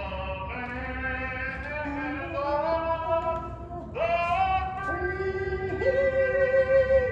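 Music with a female voice singing long held notes that step from one pitch to the next, a new phrase starting about four seconds in.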